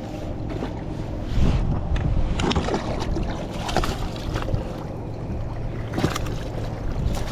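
Wind buffeting the microphone on a kayak, a steady low rumble, with a few sharp clicks and knocks scattered through.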